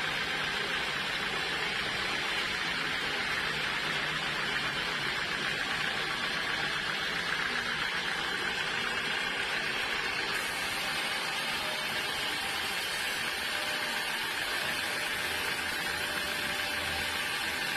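Sawmill saw cutting teak wood: a steady, unbroken noise with no pauses.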